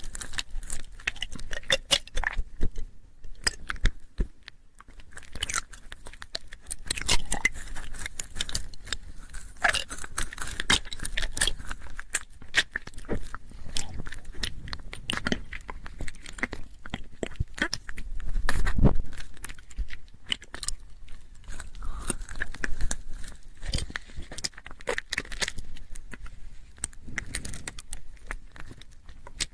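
Close-miked ASMR mouth sounds: a steady run of wet clicks and smacks of lips and tongue, irregular and dense, with a louder stretch a little past the middle.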